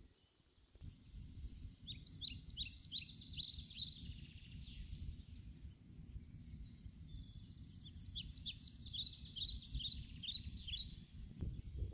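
Small birds chirping in two quick runs of short, high notes, one starting about two seconds in and another about eight seconds in, over a steady low rumbling noise.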